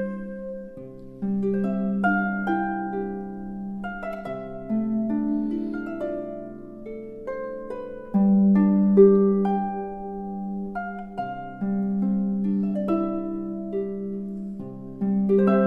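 Gentle background music: a plucked harp-like melody of decaying notes over sustained low tones.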